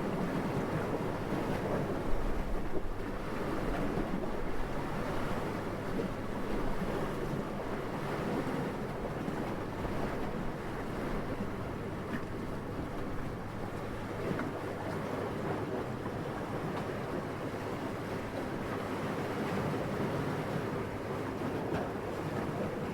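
Steady wind: a low rushing noise that swells and eases slowly, with a few brief stronger gusts about two to three seconds in.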